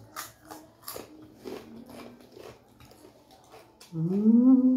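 Close-up eating sounds: wet chewing with small clicks and lip smacks as a meal of beans, rice, lettuce and roasted beef tripe is eaten by hand. About four seconds in, a person starts a loud, long hum, wavering slowly in pitch.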